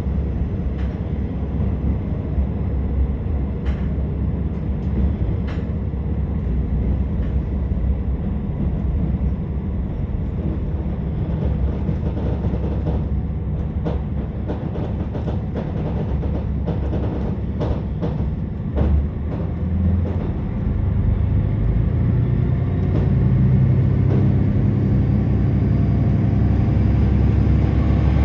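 Inside a KiHa 47 diesel railcar on the move: a steady low rumble of engine and wheels, with scattered clicks of the wheels over rail joints. From about twenty seconds in the diesel engine's note rises and grows louder as it takes power.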